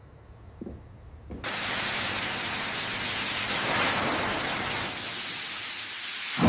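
A faint low hum, then a loud, steady rushing hiss that starts abruptly about a second and a half in. A sudden thump comes at the very end.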